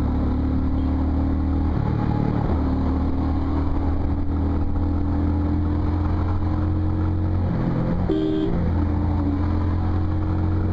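Motorcycle engine running steadily while riding, its note dipping and shifting briefly about two seconds in and again around eight seconds in.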